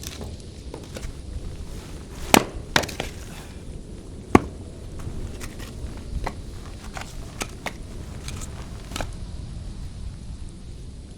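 Wood fire crackling, with irregular sharp pops over a steady low rumble; a few loud pops come in the first half.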